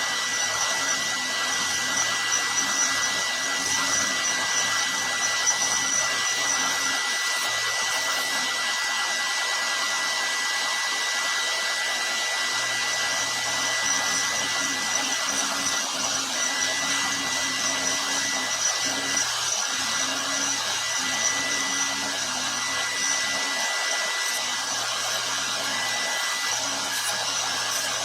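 Milling machine running with a 1/4 inch end mill taking slow cuts in brass stock: a steady motor whir with a constant high whine.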